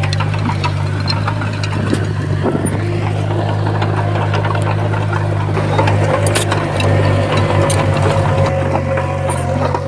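Komatsu bulldozer's diesel engine running steadily with a steady whine over it, and scattered metallic clicks and clanks; the engine note pulses and gets louder about seven seconds in.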